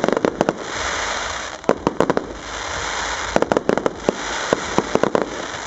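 Fireworks display: four clusters of sharp bangs from shells bursting in quick succession, about a second and a half apart, over a steady hiss.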